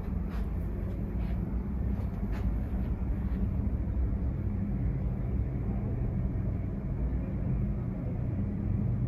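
Steady low vehicle rumble, with a few light clicks in the first few seconds.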